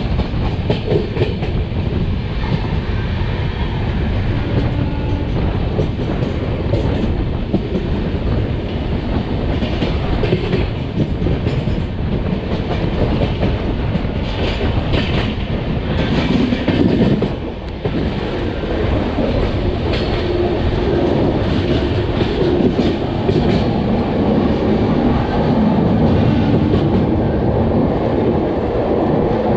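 The Ernakulam Duronto Express running along the line: a steady rumble with the wheels clattering over rail joints, and a short dip in level a little past halfway.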